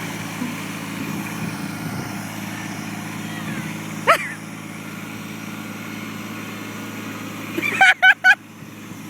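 An engine running steadily. About four seconds in there is a short rising sound, and near the end three loud, short pitched bursts come in quick succession as the engine sound drops away.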